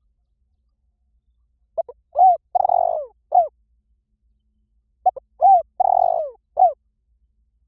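Spotted dove cooing as a decoy call: two phrases about three seconds apart. Each has a quick double note, a rising-falling coo, a longer coo and a closing coo.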